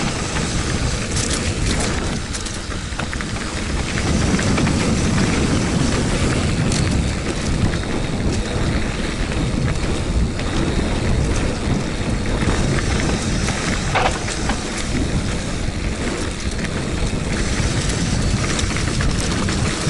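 Wind buffeting the microphone with the rumble and rattle of a bike rolling fast over a rough, rocky trail, with scattered knocks from the wheels hitting stones.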